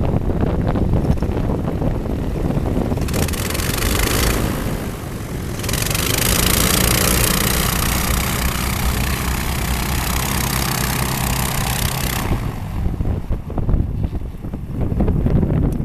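Airboat engine and air propeller running. The sound turns louder and brighter for about a second, then again for about six seconds in the middle, as if run up or passing close, over a low, uneven wind rumble on the microphone.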